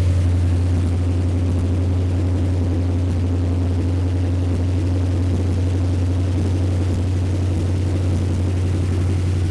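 Plymouth 340 V8 in a Ford F1 pickup idling steadily through Cherry Bomb mufflers, a constant low exhaust drone.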